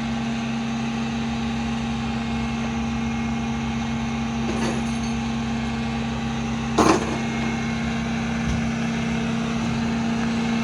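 Tow truck running with a steady hum, with a short knock about seven seconds in and a fainter one a couple of seconds earlier.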